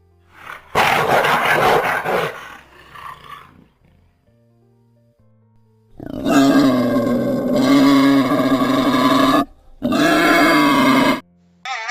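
Big cat, likely a tiger, roaring: a rough growl, a pause, then a long call and a shorter one.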